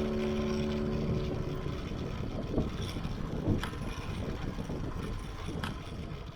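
The last held guitar note fades away, leaving steady rushing outdoor noise broken by a few sharp cracks or clicks. It all fades out near the end.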